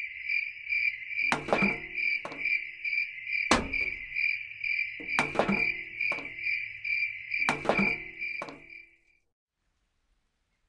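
Small tin buckets knocking on a tabletop several times as they are picked up and set down, over a steady high chirping like an insect's, pulsing about three times a second, that cuts off near the end.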